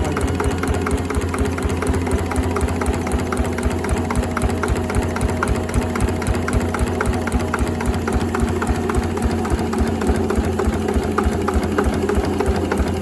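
Slavia 8 hp single-cylinder stationary diesel engine idling slowly and evenly at about 500–600 rpm, with a regular, steady beat.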